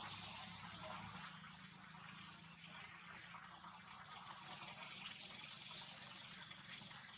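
A few short, high bird chirps over a steady hiss of outdoor ambience, the loudest about a second in. A low engine hum fades out at about the same time.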